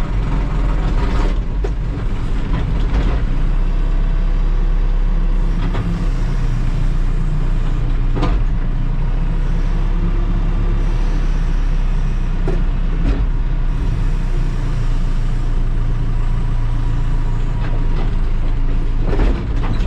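Terex TLB-815 backhoe loader's diesel engine running steadily at working speed, with a few sharp knocks scattered through as it loads.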